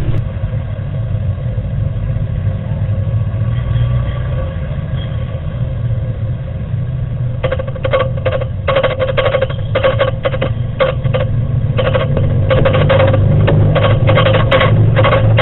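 Deep, steady rumble of a building shaking in an earthquake. About halfway through, a rapid buzzing rattle joins it in irregular spurts, as fixtures and objects vibrate against each other.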